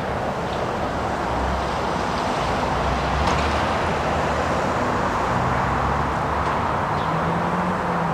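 Sounder commuter train with an MP40PH-3C diesel locomotive pulling into a station: a steady noise of diesel engine and steel wheels on rail, with low engine tones that shift in pitch in the second half.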